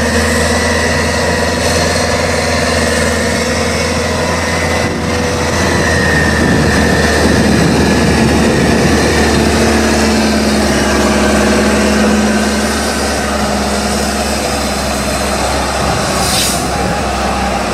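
Avia D31 truck's diesel engine running under load off-road, its pitch drifting slowly up and down, with a short hiss near the end.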